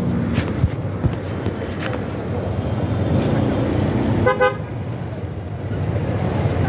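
Steady rumble of road traffic heard while riding through city streets, with a vehicle horn honking briefly about four seconds in.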